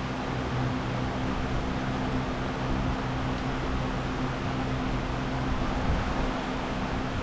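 A steady rushing noise with a low, even hum underneath, unchanging, like a running fan or blower.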